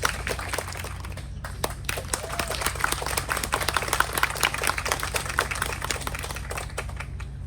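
Audience applauding, a steady patter of many hands clapping with a brief lull about a second and a half in.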